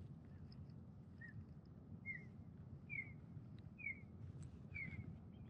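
Faint bird chirping: a short call repeated about once a second, five times, over a steady low rumble of surf or wind.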